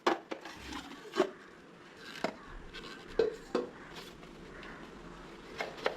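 A series of sharp, irregular knocks and clacks of hard objects being handled and set down on a surface, about eight in all, with light rubbing between them.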